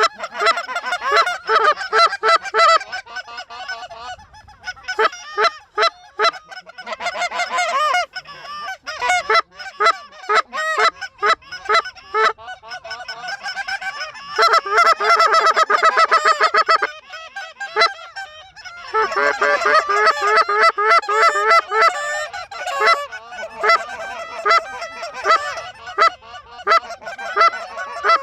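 Geese honking and clucking, many short calls overlapping in quick succession, densest around the middle, with a brief lull about two-thirds of the way in before they pick up again.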